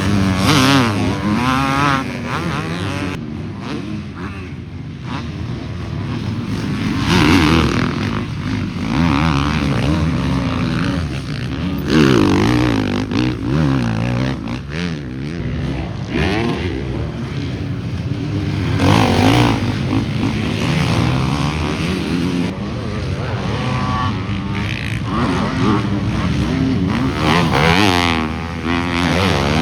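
Several motocross bikes running on a dirt track, engines revving up and down through the gears, with a string of loud close passes that rise and fade every few seconds.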